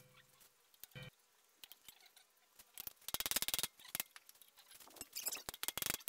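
Faint scattered clicks and light ticks, with a quick run of them about three seconds in and more near the end, after the last of a music track dies away in the first second.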